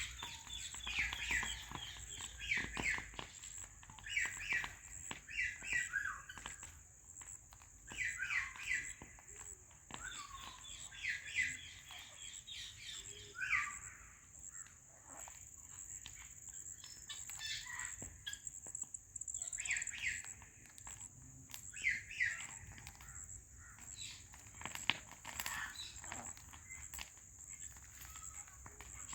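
Alexandrine parrots chirping in short quick runs, a cluster every couple of seconds, over a steady high-pitched whine.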